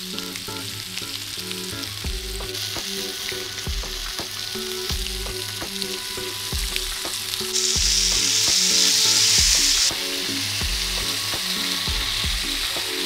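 Chicken thighs sizzling in a hot ridged grill pan while peri-peri sauce is brushed onto them. The sizzle jumps louder for about two seconds near the middle, then drops back.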